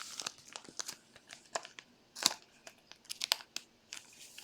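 Trading cards and their plastic packaging being handled: scattered crinkling and rustling with small clicks, the strongest about two seconds in.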